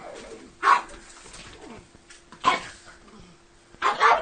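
A small dog barking: three short barks, about a second and a half apart.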